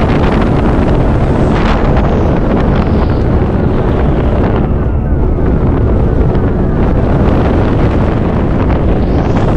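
Storm-force mountain wind buffeting the microphone: a loud, continuous rumble heaviest in the low end. The higher hiss thins out in the middle and builds again near the end as the gusts shift.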